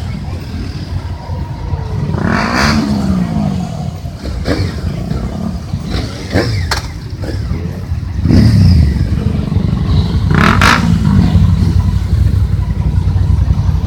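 Motorcycles racing past on a circuit with engines revving. Two close pass-bys rise and fall in pitch, about two and a half seconds in and again near ten seconds, over a steady low rumble.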